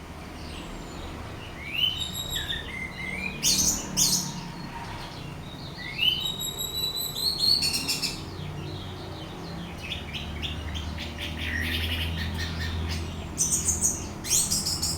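Orange-headed thrush singing: phrases of quick sweeping whistles and rapid chattering notes, coming every couple of seconds with a longer gap near the middle, over a steady low hum.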